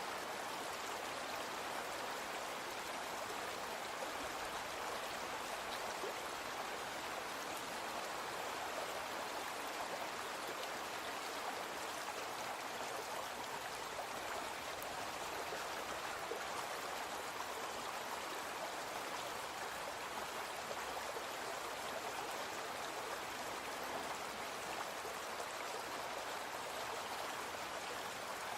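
Small brook flowing: a steady, even rush of running water.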